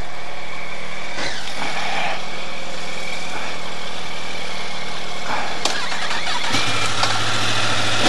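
Yamaha R1 sport bike inline-four engine idling steadily. About five and a half seconds in there is a click, and shortly after a second engine catches and idles alongside with a stronger, deeper hum.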